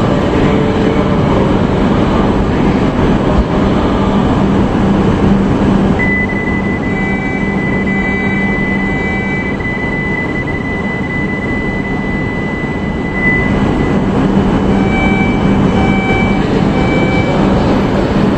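E5 series Shinkansen standing at the platform, its onboard equipment humming steadily with a low drone. From about six seconds in, a steady high electronic tone sounds for about seven seconds, and short beeps repeat in two spells of about three each.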